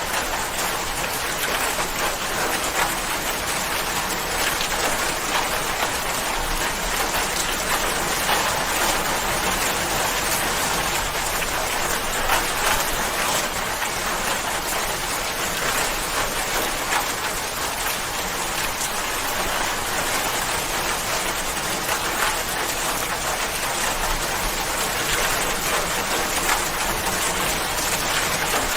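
Steady rain, an even hiss of drops falling on a surface with faint scattered patters, unchanging throughout.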